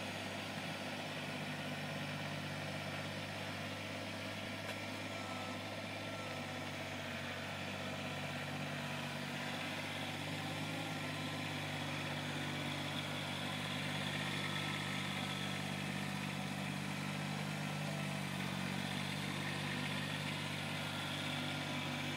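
A steady low hum of a running engine, holding an even pitch.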